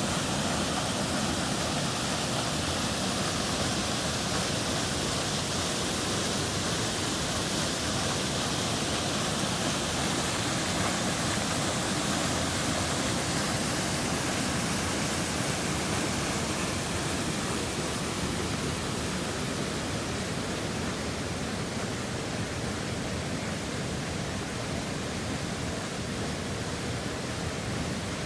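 Waterfall, a steady rush of falling water that turns a little softer in the high end over the last third.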